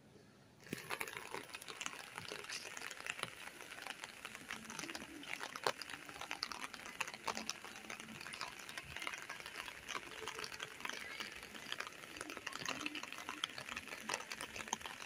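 Rain pattering: a dense, steady crackle with scattered sharper ticks that starts suddenly just under a second in.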